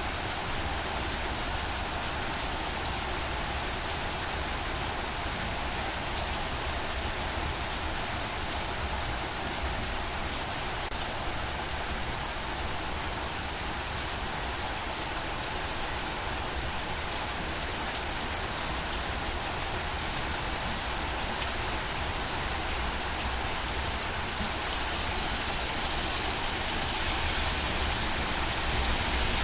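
Steady heavy rain falling on a surface, a dense even patter of drops with a low rumble underneath.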